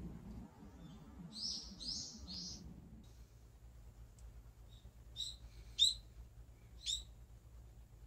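A bird chirping: three quick high notes about a second in, then three sharper downward-sweeping calls later on, the loudest about six seconds in, over a faint low background rumble.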